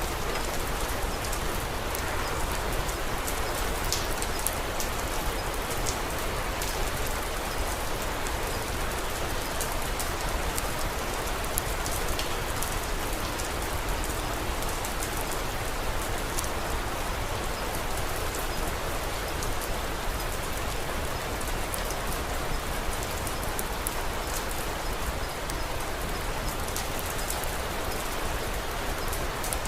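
Steady rain falling, with scattered sharp crackles from a wood fire in a fireplace over the even wash of the rain.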